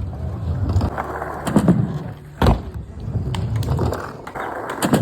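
Skateboard rolling on a ramp, the wheels giving a steady rumble, with a sharp clack of the board hitting the ramp about two and a half seconds in and another near the end.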